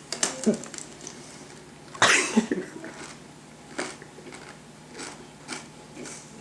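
Biting into and chewing a whole raw egg in the shell: crisp cracks and crunches of eggshell, the loudest about two seconds in, then sparser single crunches.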